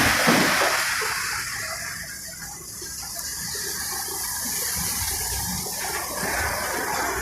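Heavy rain falling and running water, a steady hiss that is loudest for about the first second and then settles lower.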